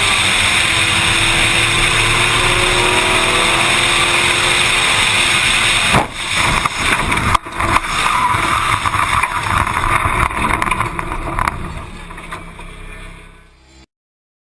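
Car engine and road noise heard from an onboard camera, the engine pitch rising in the first few seconds. Sharp bangs come about six and seven and a half seconds in, then the noise fades and cuts off near the end.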